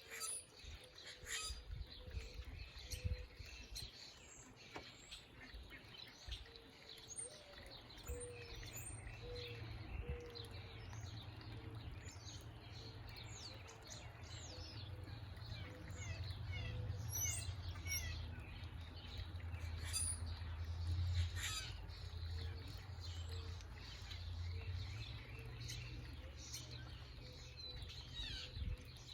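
Several small birds chirping and calling in quick, high, falling notes. A series of short, lower notes repeats throughout, over a low steady rumble.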